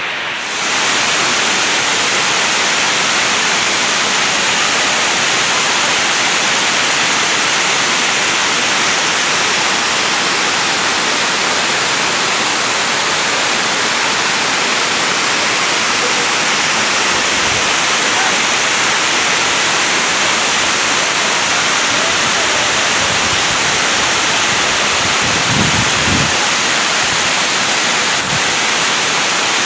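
Waterfall, its water rushing with a steady, loud hiss. There are a few brief low thuds near the end.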